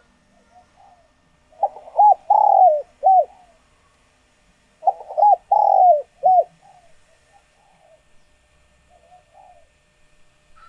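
Spotted dove cooing: two loud phrases of about four notes each, a few seconds apart, the middle note of each longest, with softer short notes between and after them. This is the male's song, played as a decoy call to draw in wild doves.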